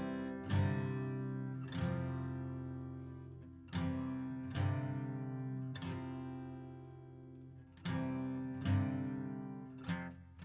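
Acoustic guitar music: slow strummed chords, each left to ring out and fade, with a few quicker strums near the end.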